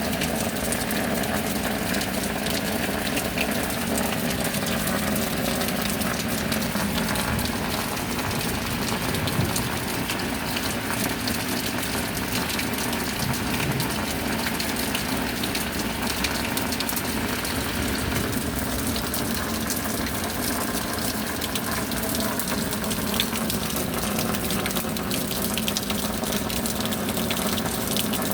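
Steady rain: an even rush of falling water with fine ticks of drops, holding the same level throughout.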